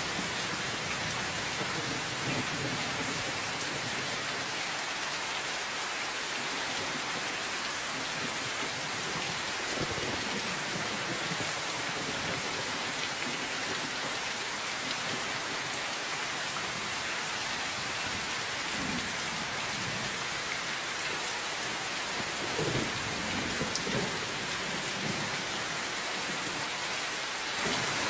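Steady rain, an even hiss throughout, with low rolls of thunder rumbling under it a few times, about a third of the way in and again in the later part.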